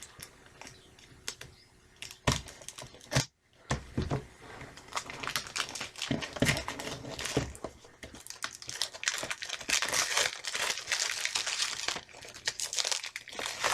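Plastic shrink wrap being picked at, torn and peeled off a VHS tape case: a few scattered taps and scratches, then dense, irregular crinkling and tearing from about four seconds in.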